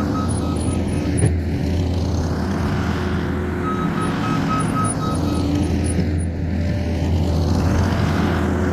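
New Holland C232 skid steer's diesel engine running steadily under work, with its backup alarm beeping rapidly near the start and again midway.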